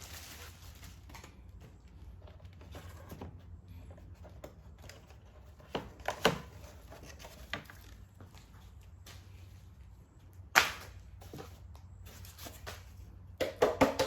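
Scattered sharp clicks and knocks of plastic air box parts being handled during an engine air filter change, with one loudest knock about ten seconds in and a quick run of clicks near the end. A low steady hum sits underneath.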